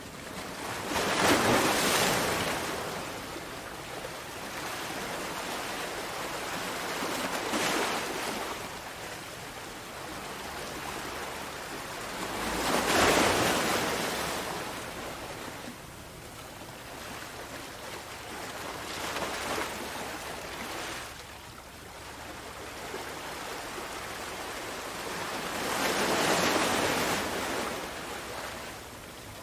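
Sea waves breaking on a shore: five surges of surf about six seconds apart, each swelling and falling away, the strongest about a second in and about halfway through.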